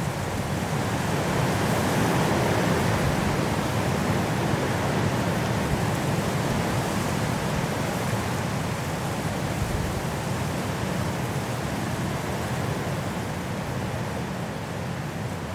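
Strong wind blowing through trees in a snowstorm, a steady rushing that swells a little about two seconds in and eases slightly toward the end.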